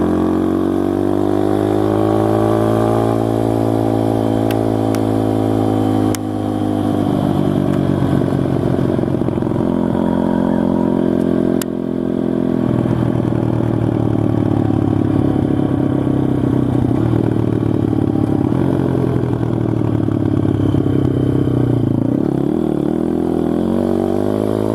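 SSR TR160 pit bike's single-cylinder four-stroke engine running under way, its pitch climbing over the first few seconds. The revs drop briefly about six seconds in and again about twelve seconds in, then the engine runs on fairly steadily.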